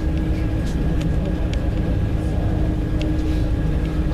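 A passenger train running, heard from on board: a steady low rumble with a constant hum and a few scattered clicks.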